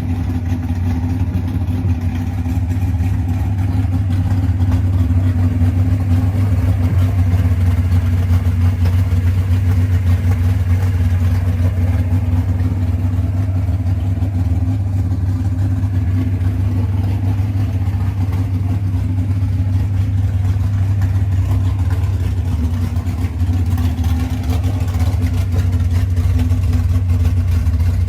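Muscle car engine running steadily at low revs, a deep, even sound that holds the same pitch throughout.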